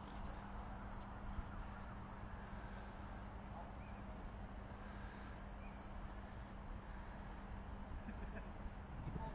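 Outdoor ambience: a low rumble and a steady low hum, with short series of high chirps from a small songbird several times.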